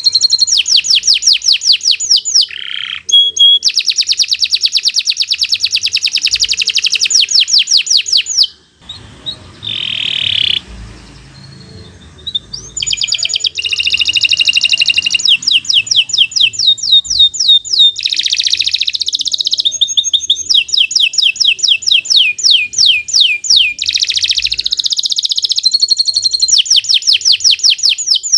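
Domestic canary singing long, fast trills of repeated high notes, about ten a second, with a pause of a few seconds near the middle before the song resumes.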